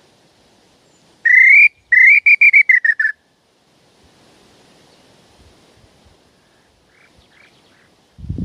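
Hand-blown bird call (pio) imitating a bird's song, loud and close: one rising whistled note, then a quick run of about six notes that fall slightly at the end. A low thump comes near the end.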